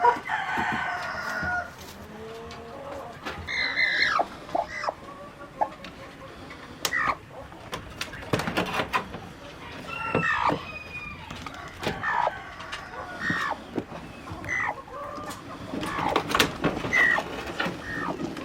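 A flock of chickens clucking and calling in short, scattered calls, with a rooster crowing.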